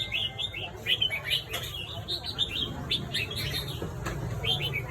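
Red-whiskered bulbul singing: a quick, continuous run of short chirpy whistled notes.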